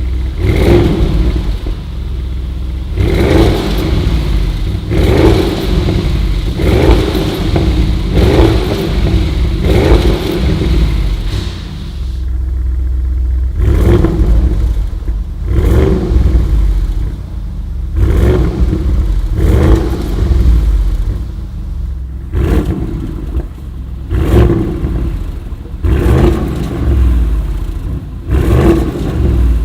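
Audi RS6 with a Prior Design PD6RS body kit, its twin-turbo V8 idling and blipped over and over, a short rev every second or two, with a brief pause about twelve seconds in.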